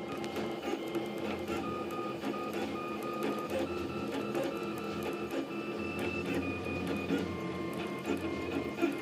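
Leapfrog Creatr FDM 3D printer at work, its stepper motors whining in short tones that jump from pitch to pitch as the print head changes direction and speed, over a steady mechanical hum.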